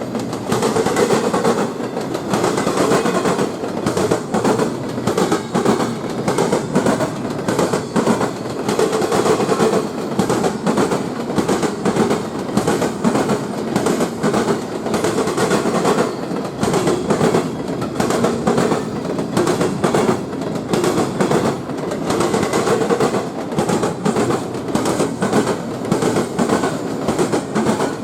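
Train cars rolling past steadily, their wheels clicking rapidly over rail joints with a constant rumble.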